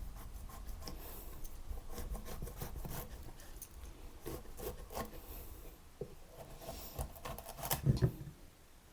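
Kitchen knife cutting through a tough butternut squash on a cutting board: irregular scraping of the blade and small knocks against the board, with a few louder knocks near the end.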